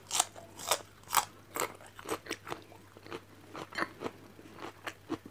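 A person chewing crunchy food, a series of crisp crunches about two or three a second, picked up close by a clip-on microphone.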